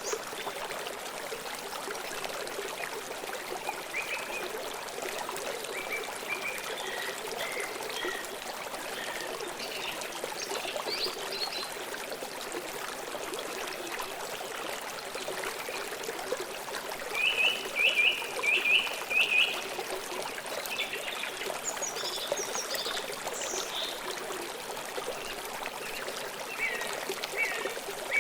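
A river flowing steadily, with a continuous trickling and rushing of water. Birds chirp here and there over it, loudest in a quick run of about five notes about two thirds of the way through.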